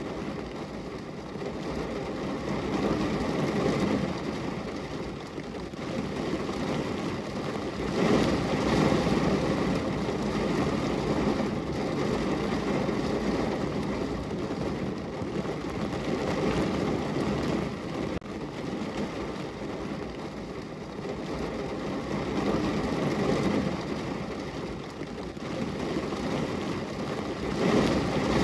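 Rain falling on a window: a steady wash of rain noise that swells and eases every few seconds.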